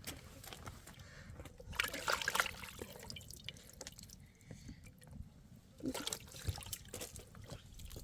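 Water trickling and dripping, with small splashes that come in clusters about two seconds in and again near six seconds.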